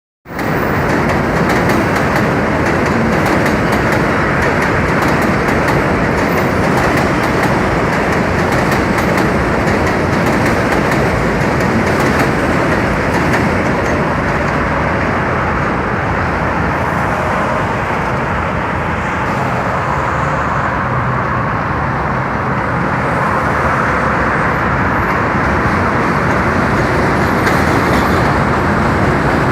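New York City subway train running on the Williamsburg Bridge tracks: a loud, steady rumble of wheels on rail, with light high clicking through roughly the first half.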